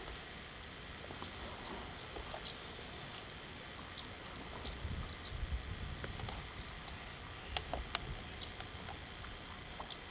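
Small birds calling: many short, high chirps and quick downward-sliding notes, scattered irregularly, over faint background hiss.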